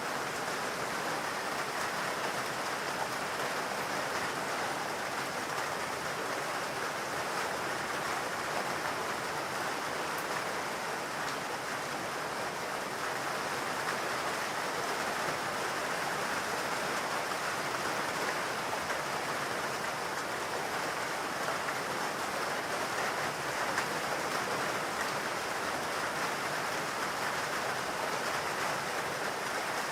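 Steady rain falling in a forest, an even dense hiss of drops.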